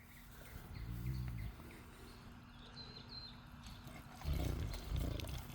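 Faint birds chirping in short high notes around the middle, over a steady low hum. A low rumbling noise, the loudest sound here, comes in just past four seconds and runs on.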